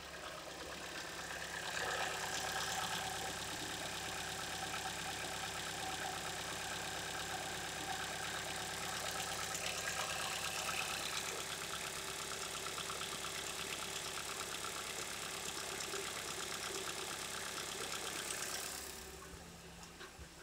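2015 Hyundai Tucson's 2.0-litre GDI four-cylinder petrol engine idling steadily, bonnet open. It grows quieter near the end.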